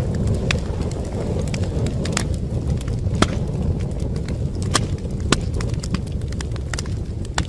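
Wood fire crackling in a fireplace: irregular sharp pops and snaps over a steady low rumble of the flames, with a couple of louder pops about 3 and 5 seconds in.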